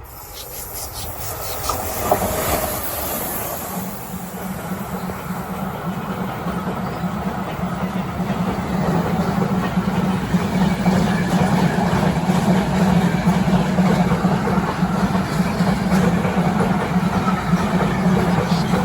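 A train passing close by on the track: the noise builds over the first few seconds, then holds loud and steady with a low hum under the running noise.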